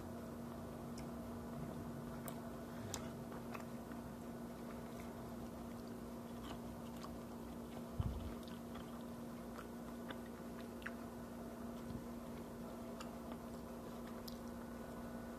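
A person chewing food, with faint scattered mouth clicks over a steady low hum, and a single low thump about halfway through.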